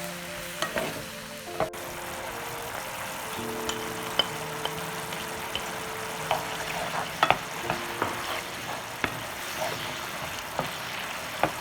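Food sizzling as it fries in a pan, stirred with a utensil that clicks sharply against the pan now and then.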